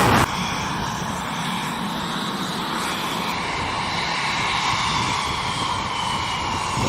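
Military jet aircraft engine noise: a steady rush with a faint whine that slowly falls in pitch. A louder stretch cuts off abruptly just after the start.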